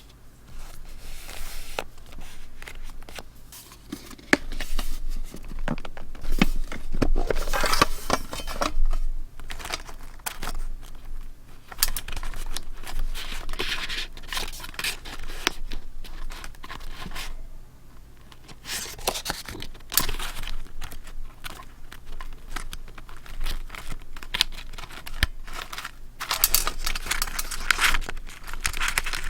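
Paper being handled close to the microphone: irregular tearing, crinkling and rustling with small sharp clicks, easing off briefly about two-thirds of the way through.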